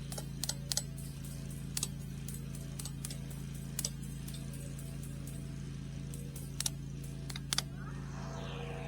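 A lawn mower's engine runs steadily in the background, while a dozen or so sharp, light clicks are scattered through, from the T-post wire clips and twisting tool being handled at the fence.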